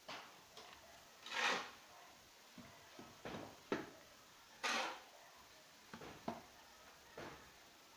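Irregular short scrapes and knocks, about eight in all. The longest scrapes come about a second and a half in and near five seconds.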